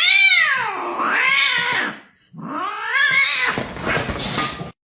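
A cat yowling in two long drawn-out calls, each rising and then falling in pitch; the second one breaks off abruptly.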